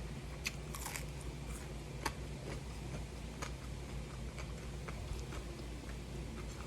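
Close-up mouth sounds of someone chewing and biting food, with scattered small wet clicks, over a steady low hum.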